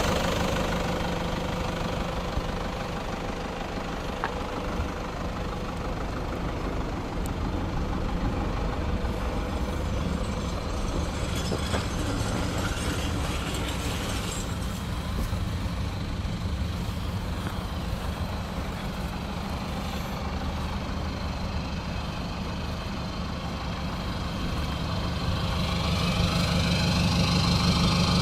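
Toyota Land Cruiser Prado engine idling steadily. It is louder at the start and grows louder again near the end.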